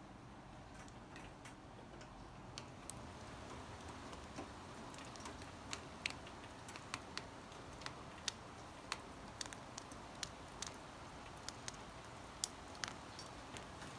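Rain, with scattered drops tapping sharply and irregularly, a few a second, over a soft steady hiss.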